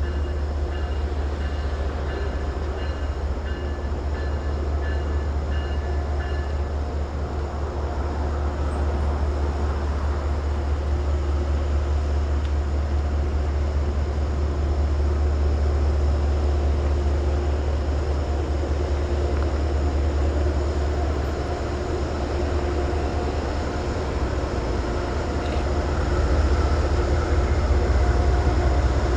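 Diesel engines of Metro-North GE P32AC-DM locomotives running with a steady deep rumble and a humming drone. A repeating high ding stops about seven seconds in, and the rumble grows a little louder near the end.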